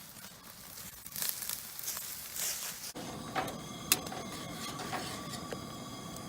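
Campfire crackling with scattered pops. About three seconds in it gives way abruptly to a steady sizzle with occasional sharp pops: steak frying over the fire.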